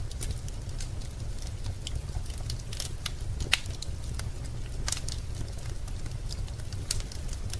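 Wood fire crackling in a fireplace: irregular sharp pops and snaps over a low steady rumble, the loudest pop about three and a half seconds in.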